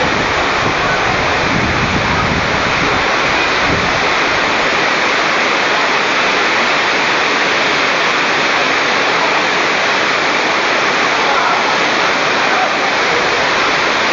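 Very heavy rain pouring down, a loud, steady, dense hiss that does not let up.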